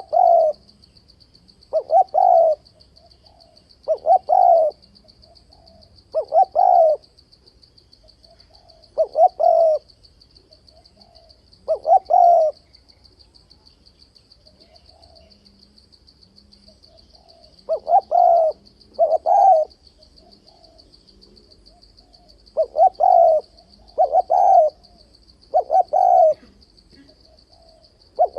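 Spotted dove cooing repeatedly, short phrases coming singly and in quick pairs with pauses of a few seconds between them. A faint, steady, high pulsing trill like a cricket's runs underneath.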